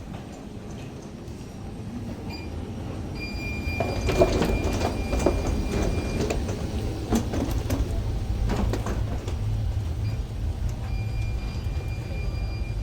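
Jet bridge boarding noise: a steady low rumble that builds over the first few seconds, with scattered clattering and a thin high whine.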